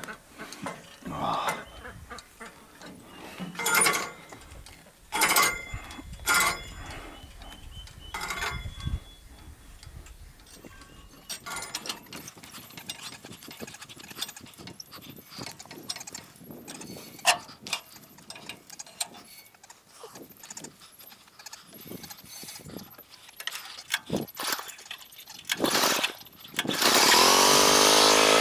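Scattered knocks, clanks and squeaks of work at a sawmill, then near the end the sawmill's engine starts and runs loudly.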